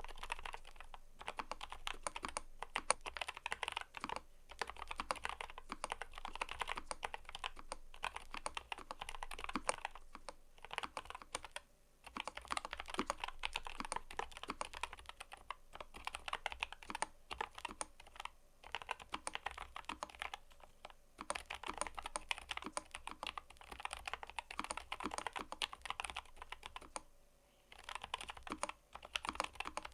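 Fast, continuous typing on a mechanical keyboard: rapid key clicks, broken by brief pauses about twelve seconds in, about twenty-one seconds in and near the end.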